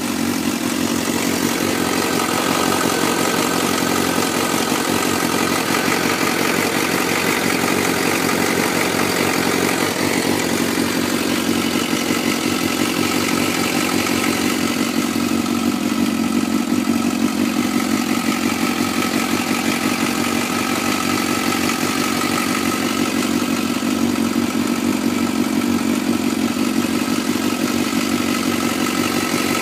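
2004 Suzuki GSX-R600's inline-four engine idling steadily from a cold start, with a ticking that the owner wonders is a cam chain tensioner needing replacement.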